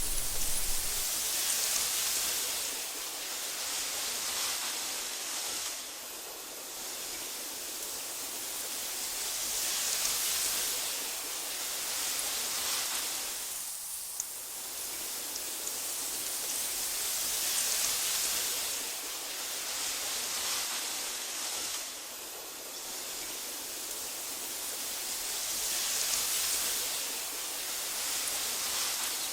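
Wind blowing through tall meadow grass, a soft hiss that swells and fades in slow, even waves about every eight seconds.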